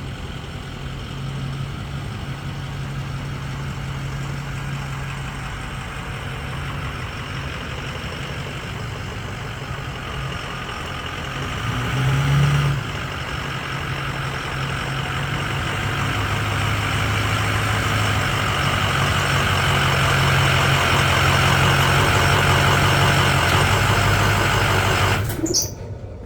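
Ford 6.0 Powerstroke V8 turbodiesel running steadily, with a short rise about halfway and growing louder in the second half, then shut off about a second before the end.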